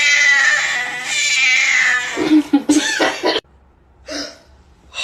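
A cat yowling: one long, loud, drawn-out cry of about two seconds that breaks into shorter choppy sounds, cuts off suddenly, and is followed by a short call about a second later.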